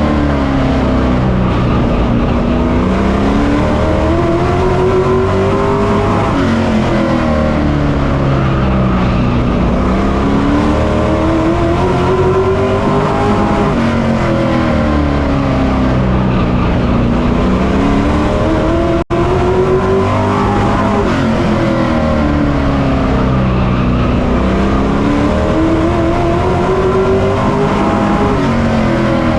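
Pro Truck race engine heard on board at full race pace, its pitch climbing as it accelerates down each straight and falling as the driver lifts for the turns. The cycle repeats about every seven seconds, four laps in all, with a momentary audio dropout about two-thirds through.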